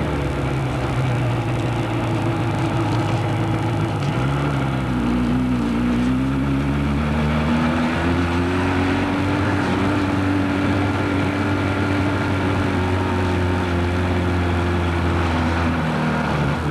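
Motorcycle engine running while riding, its pitch dipping and climbing again about five seconds in, then holding steady.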